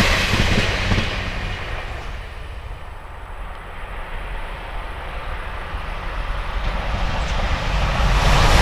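A passing diesel passenger train's noise fading away as it runs off, then after a lull an express train approaching, its sound growing steadily louder toward the end.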